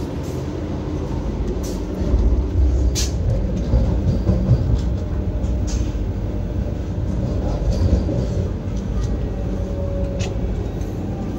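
Steady low rumble of the Vande Bharat Express train running, heard from inside the coach by the vestibule door, with a few sharp clicks and knocks.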